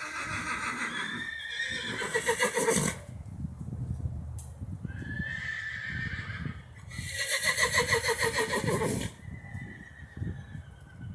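A horse whinnying several times in long, loud calls, the loudest about two and eight seconds in. It is a separation call: the horse is calling for his two herd mates, which are still out in turnout.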